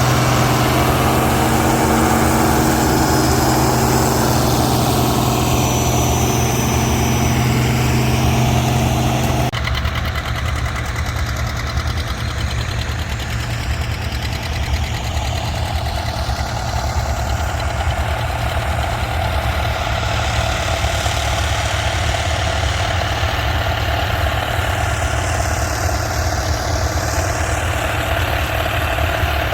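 Tractor engine running steadily. About nine seconds in the sound changes abruptly to a somewhat quieter, lower engine drone.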